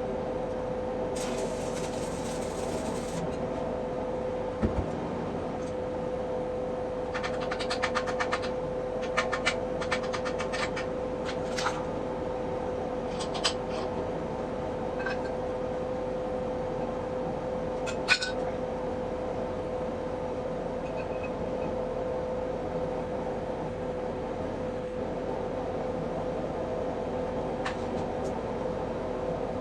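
Steady roar with a constant hum, like a running burner or machine, broken by a short hiss near the start, a few short bursts of dense crackling about a quarter to two fifths in, and a handful of single sharp clicks later.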